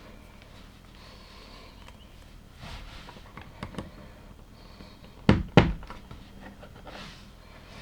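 LEGO pieces being handled during a build: a few light plastic clicks, then two sharp knocks a quarter second apart about five seconds in, as parts are pressed together or set down on the table.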